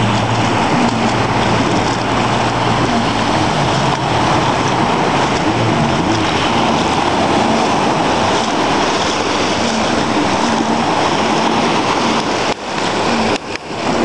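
Jet ski engine running amid rushing water and wind noise, a steady loud wash with a faint engine drone underneath; it drops out briefly a couple of times near the end.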